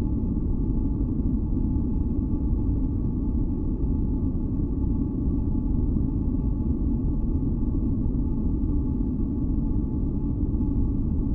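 Steady deep rumbling noise of a sleep and masking track, weighted toward the bass and without change, with a few faint steady tones above it.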